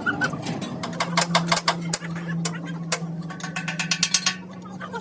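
A string of sharp, irregular metal knocks, several close together about a second in and again near the fourth second, over a steady low machine hum.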